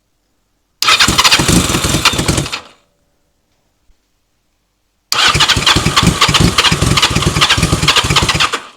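Yamaha XJ750's inline-four engine cranked on its electric starter in two attempts, about two seconds and then about three and a half seconds long, turning over with a fast rhythmic chug through the new custom exhaust but not settling into running: the fuel mixture is not right yet.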